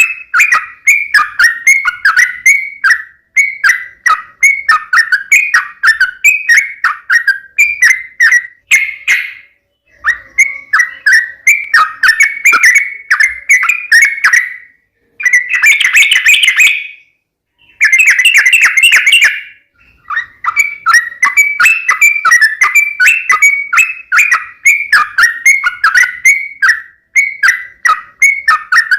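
Yellow-vented bulbul (trucukan) singing loud, rapid, bubbly chattering phrases of short notes one after another, with a few brief pauses. This is the aggressive 'fighting' song used to provoke other bulbuls into answering.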